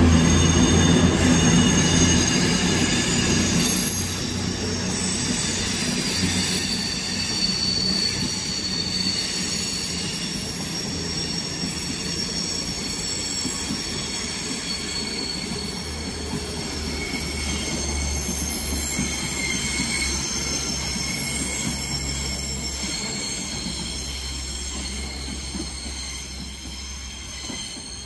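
CrossCountry Voyager diesel multiple unit moving slowly through the station: its underfloor diesel engines give a deep hum that is loudest at first and fades over the first few seconds, while thin high-pitched wheel squeal rings on over the track noise.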